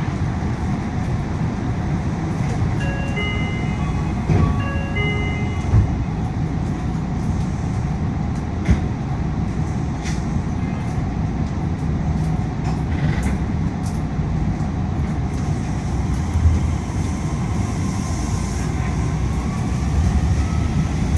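Inside a Yui Rail monorail car: steady running noise with the loud hum of the air conditioning. About three seconds in, a short series of electronic chime tones sounds, and there are a few faint clicks.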